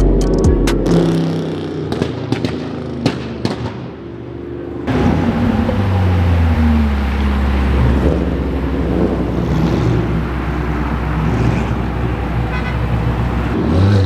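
Music with drum hits fading out over the first few seconds, then a sudden cut to car engines running, with a low rumble and engine notes shifting in pitch, over traffic noise.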